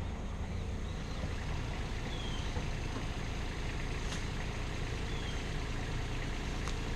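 Steady low rumble of a heavy engine idling, with a couple of faint short high chirps and a light tick or two over it.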